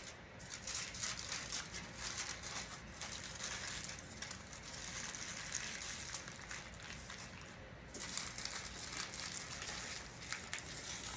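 Aluminum foil crinkling as it is folded tightly into a packet, a steady run of small crackles with a brief lull about eight seconds in.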